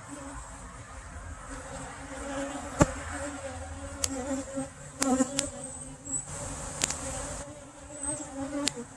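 Honeybees buzzing around an opened hive in a steady, wavering hum, with several sharp clicks and knocks; the loudest knock comes just before three seconds in.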